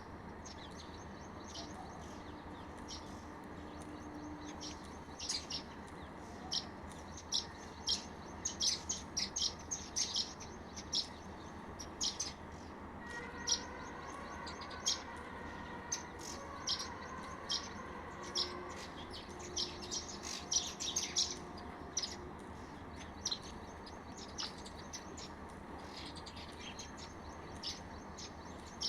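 House sparrows chirping: many short, sharp chirps in quick clusters, coming and going throughout.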